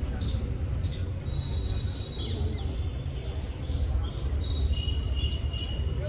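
Small birds chirping, with thin high whistled notes held for about a second, twice, over a steady low rumble.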